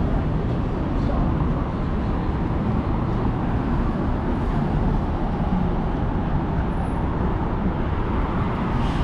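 Steady low rumble of city street traffic, an even wash of engine and tyre noise with no single vehicle standing out.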